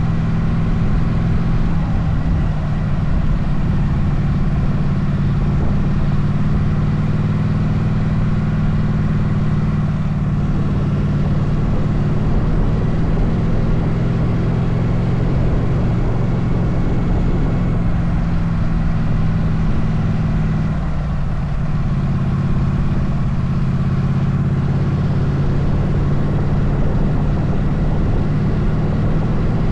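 Motorcycle engine running steadily under way, with wind and road noise. The engine note drops to a lower pitch about two-thirds of the way through, then carries on steadily.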